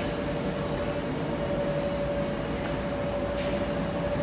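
Commercial laundromat tumble dryers running: a steady rumbling drone with a constant mid-pitched hum.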